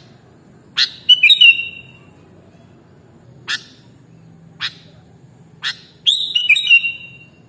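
Sooty-headed bulbul (kutilang) calling: several short, sharp single notes and, twice, a quick phrase of clear whistled notes, the second phrase near the end matching the first.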